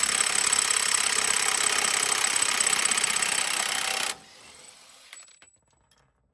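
Impact wrench hammering on the front axle nut, breaking it loose, with a steady high whine over the rattle; it stops abruptly about four seconds in, followed by a few faint clicks.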